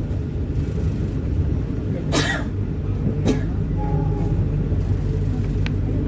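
Steady low rumble of a moving passenger train, heard from inside the carriage, with two short sharp noises about two and three seconds in.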